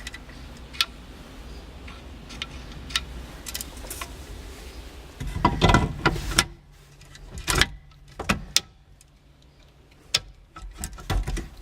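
Scattered metallic clicks and knocks, with a louder clatter about five seconds in, as a quick-release steering wheel is handled on and off its hub on the tractor's steering column.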